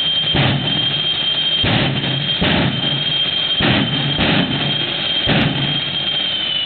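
Jet engine of a '57 Chevy jet truck running with a steady high whine, broken by six short, loud bursts spaced irregularly about a second apart; the whine dips slightly in pitch near the end.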